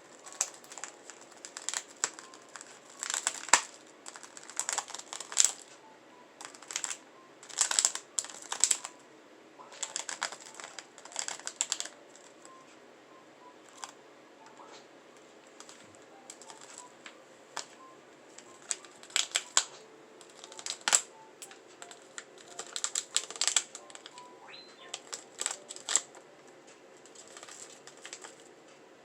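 A budgie pecking and nibbling at a plastic snack bag, crinkling it in irregular bursts of rustling and sharp clicks with short pauses between.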